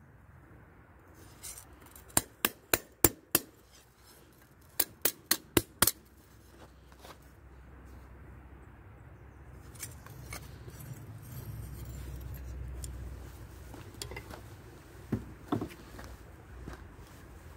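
Hammer striking spring steel on an anvil: two quick runs of about five sharp, ringing blows each, then a low rumble with a few lighter strikes near the end.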